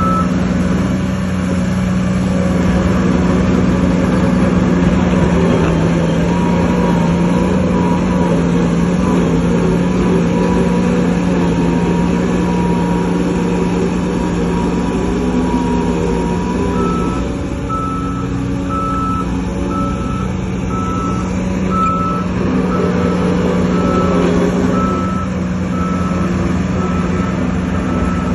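Heavy diesel earthmoving machinery running steadily. From about two-thirds of the way in, a reversing alarm beeps about once a second.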